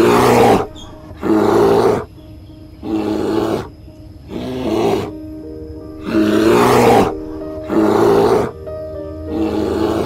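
A large animal's roaring calls in a steady series, one about every second and a half, each under a second long.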